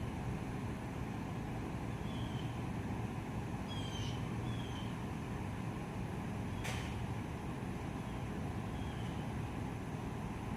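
Steady low wind rumble on the microphone, with a few short high chirps and a single sharp click about two-thirds of the way through.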